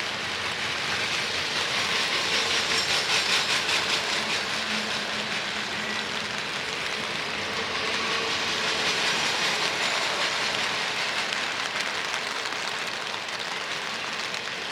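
Railroad cars rolling past with a rhythmic clickety-clack of wheels over rail joints, swelling about three seconds in and again around nine seconds in.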